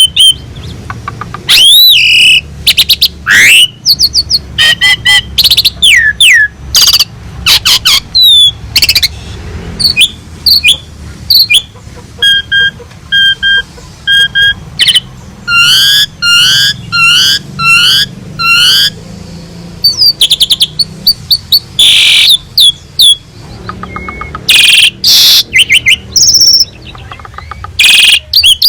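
An Asian pied starling (jalak suren) singing loudly and without pause. Its song is a varied string of whistles and rising and falling glides, broken by harsh chatters, with runs of quickly repeated notes about halfway through.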